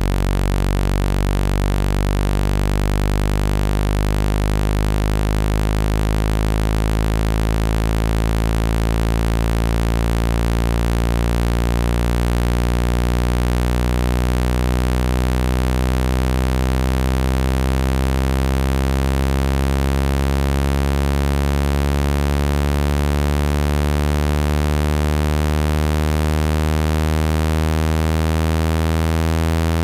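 Loud, steady, low electronic buzzing tone with many overtones, a speaker-cleaning sound played to vibrate water out of a phone speaker. Its pitch creeps slowly upward, and the deepest part fades out about two-thirds of the way through.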